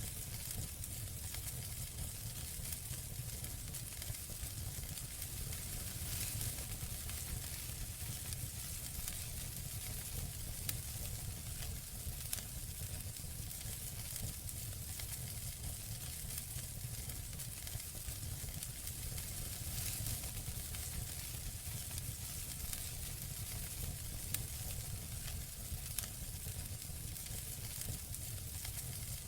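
Campfire crackling: a steady hiss of burning wood with frequent small pops and snaps, over a low steady rumble of the flames.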